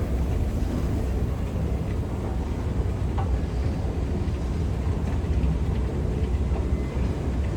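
Train running, a steady low rumble with no distinct events.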